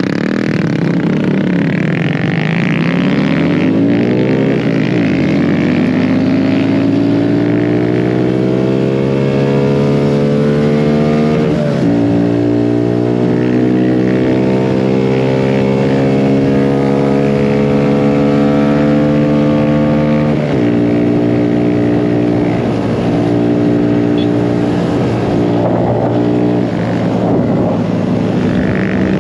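Mini bike engine running under way, its pitch climbing over the first dozen seconds, dipping sharply about twelve seconds in, holding steady until about twenty seconds, then dropping and wavering as the throttle eases, with wind rushing past.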